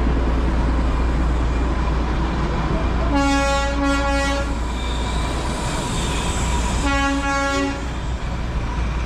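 Darjeeling Himalayan Railway train horn sounding twice, first for about a second and a half, then for about a second, over a steady low rumble.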